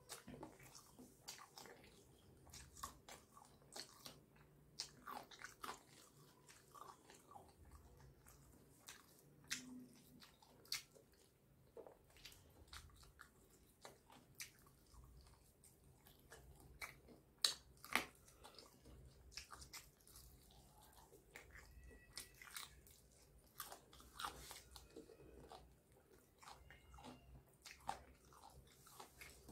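Close-up sounds of a person eating fried chicken: irregular biting and chewing with small clicks and crunches, and a couple of sharper clicks a little past the middle.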